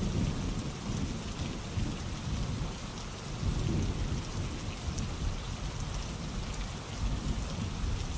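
Steady rainfall hiss with low rumbles of thunder that swell and fade a few times.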